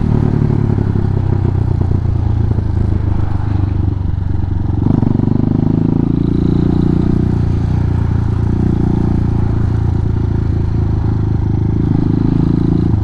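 Hawk 250 dual-sport motorcycle's single-cylinder engine running at low, fairly steady revs in slow traffic, heard from the rider's helmet mic. The engine note shifts a little about five seconds in and again near the ninth second.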